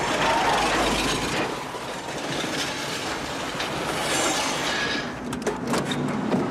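Cars in a high-speed chase: a dense, loud wash of engine and road noise, without clear pauses.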